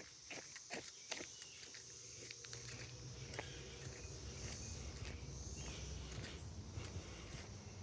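Footsteps on a trail, with crickets or other insects buzzing steadily in a high, even drone. From about two seconds in, a low steady rumble joins, and the footfalls grow less distinct.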